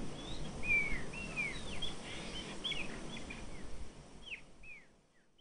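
Birds chirping over a faint outdoor background: a string of short calls that slide downward in pitch, fading out near the end.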